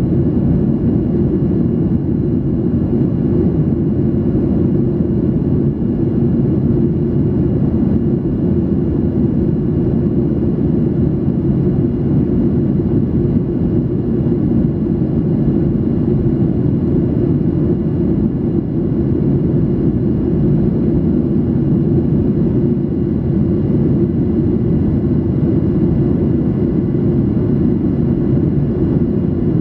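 Steady in-flight cabin noise of a Boeing 737-800: an even, loud drone of the engines and airflow, with a faint high whine running through it.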